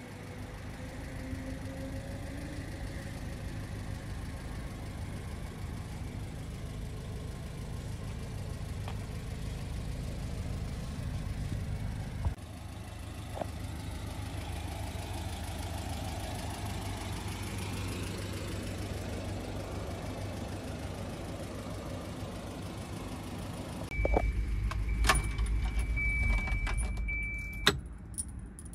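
Volvo 240 wagon's engine idling steadily, heard from outside the car. About 24 seconds in it is heard from inside the cabin, where the idle is louder and deeper and comes with a steady high warning tone and a few clicks. Idle and tone stop together near the end as the key is turned off.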